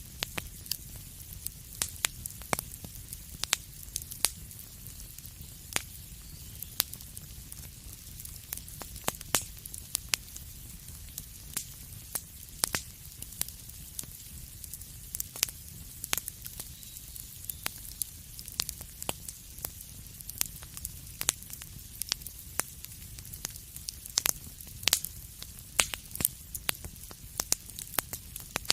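Fireplace fire crackling, with frequent irregular sharp pops over a steady low rumble and a soft hiss.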